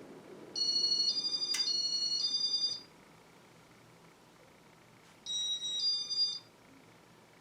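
Casablanca IntelliTouch control beeping: a run of high electronic tones stepping up and down in pitch for about two seconds, with a sharp click in the middle, then a second, shorter run of tones about five seconds in.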